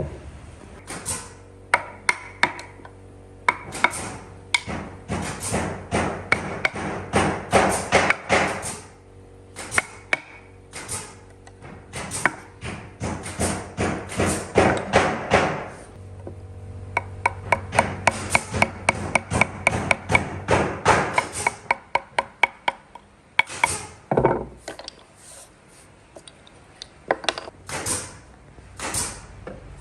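Tool striking repeatedly: runs of quick, sharp knocks, several a second, with short pauses between the runs, over a faint steady hum.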